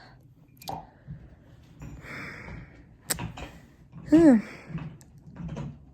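Soft clicks and rustling, a breathy sigh, and one short vocal sound falling in pitch about four seconds in.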